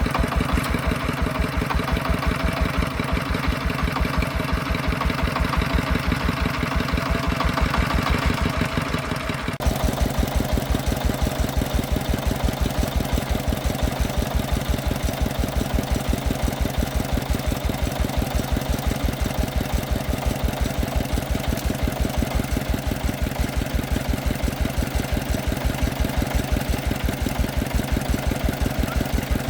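Single-cylinder diesel engine of a công nông farm truck running with a steady, even beat. The sound shifts abruptly about ten seconds in, then carries on unchanged.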